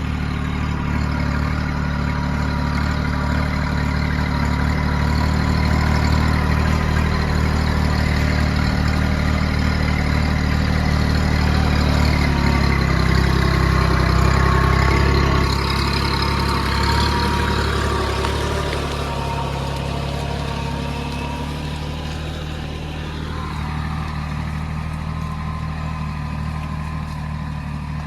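Kubota B2441 compact tractor's diesel engine running steadily, growing louder toward the middle and then fading somewhat in the second half.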